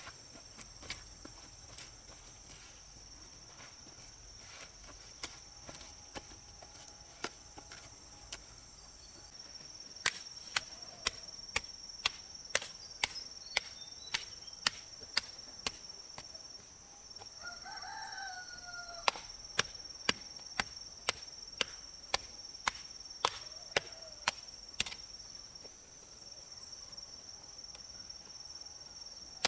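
Sharp chopping strikes, a few scattered at first, then a steady run of about two a second from about a third of the way in. The strikes pause briefly past the middle while a rooster crows. A steady high insect drone runs underneath.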